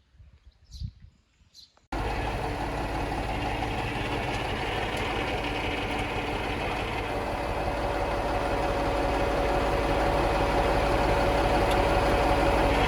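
Heavy vehicle's engine running steadily. It starts abruptly about two seconds in and grows gradually louder, with a faint steady whine coming in about halfway.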